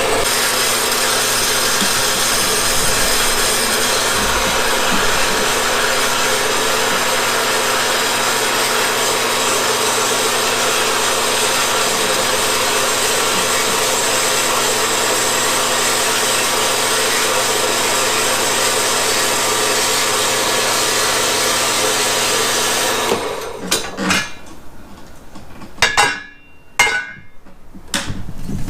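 A power tool runs steadily for about 23 seconds, cutting or grinding while trimming a mower frame part, then stops suddenly. A few sharp knocks and clatters follow near the end.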